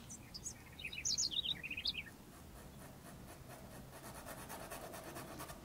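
A small bird chirping faintly, a quick run of short high chirps in the first two seconds, over the soft scratching of a small paintbrush working paint into fabric.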